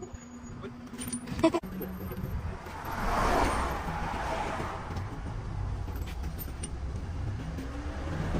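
A few sharp metal clanks about a second and a half in, then a vehicle engine running steadily, louder from about three seconds in.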